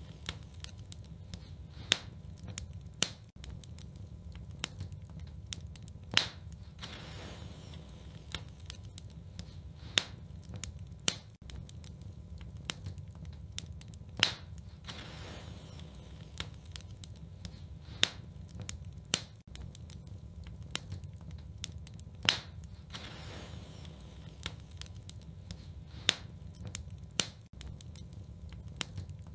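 Wood fire burning in a fireplace: a steady low rumble with many small crackles and a louder sharp pop about every four seconds.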